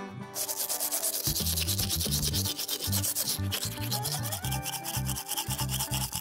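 A fast, rhythmic rubbing or scraping noise, like brisk scrubbing, starts about half a second in and runs over cartoon background music with a moving bass line.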